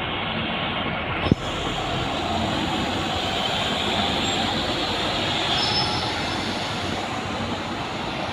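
Train running along the track: a steady rush of wheel and track noise with faint, thin, high-pitched wheel squeal. A single sharp click comes about a second in.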